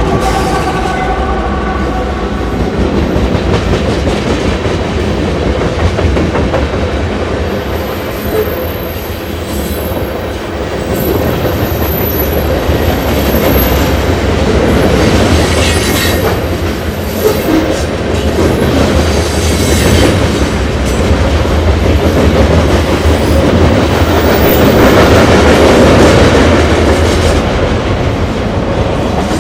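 A train's railcars rolling past steadily, wheels clicking over the rail joints, with a loud low rumble. Faint high-pitched wheel squeal comes in from about 7 to 14 seconds in.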